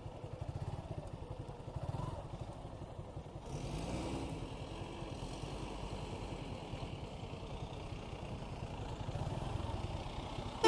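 Suzuki Gixxer 155's single-cylinder engine running under way, with a steady pulsing exhaust note; about three and a half seconds in the pitch rises as it picks up speed and wind noise comes in.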